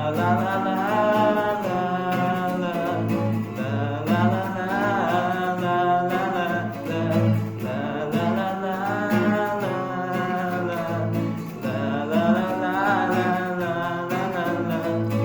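A voice singing a melody without clear words over guitar accompaniment.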